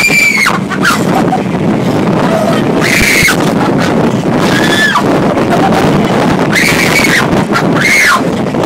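Hurricane simulator booth's fans blowing hard, loud wind noise battering the microphone, with girls letting out about five high-pitched screams.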